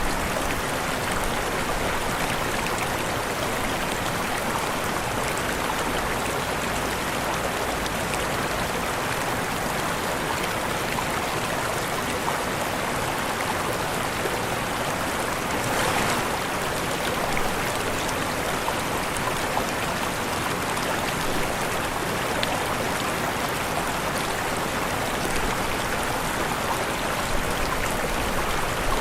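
Waterfall: steady rushing and splashing of falling water, with a slight surge about halfway through.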